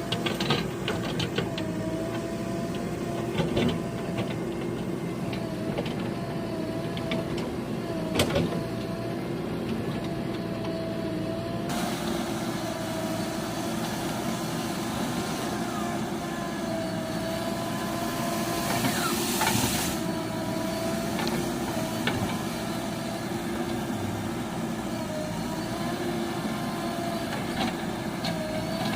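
Heavy vehicle's diesel engine running steadily, with scattered clicks and knocks and a burst of hiss about 18 seconds in.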